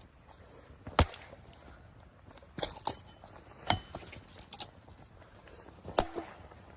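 A handful of sharp knocks and clinks at uneven intervals, the loudest about a second in and near the end, one of them followed by a short ringing tone.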